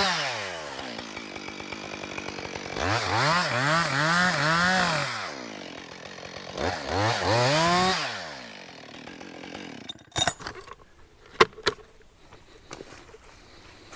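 Two-stroke chainsaw cutting the notch in a standing hemlock: the engine revs up and drops back to idle three times, then shuts off about eight seconds in. A few sharp knocks follow near the end.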